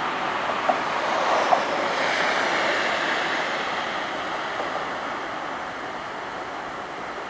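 Electric train running on the tracks: a steady rush of rail noise with a faint falling whine, slowly fading over the second half, and a couple of light clicks about a second in.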